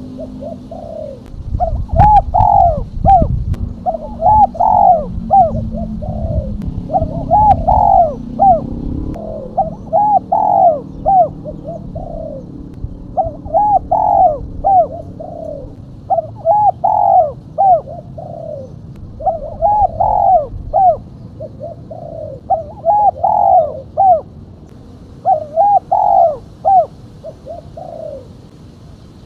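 Female spotted dove (tekukur) cooing: short, rounded, arched notes repeated in phrases throughout. A low rumble sits under the calls for the first several seconds.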